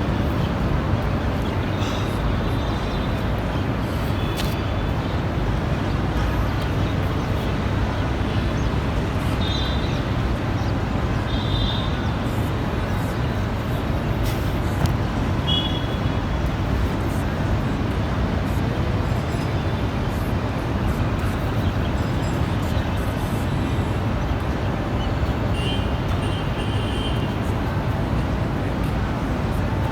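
Steady roar of road traffic, with a few short high chirps here and there.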